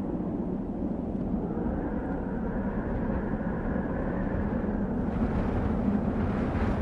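Desert wind blowing steadily with a deep rumble and a faint higher moaning tone that swells and fades; about five seconds in a gust brings in a brighter rushing hiss.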